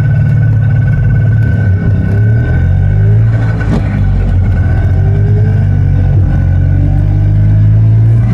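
Messerschmitt bubble car's small two-stroke engine running steadily under way, heard from on board over road noise.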